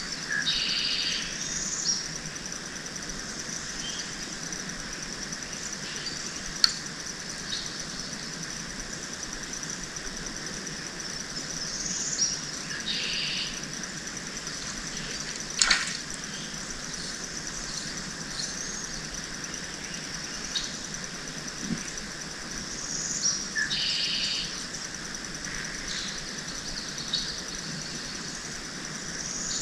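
A bird calling with the same short phrase, a rising note and then a rough high burst, three times about eleven seconds apart, over a steady high hum. Two sharp clicks, about seven seconds in and near the middle, are the loudest sounds.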